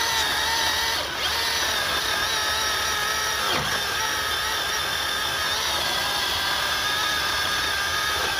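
Milwaukee Fuel cordless chainsaw's electric motor running with a steady whine as it cuts through a large log. The pitch dips briefly twice as the chain bogs under load.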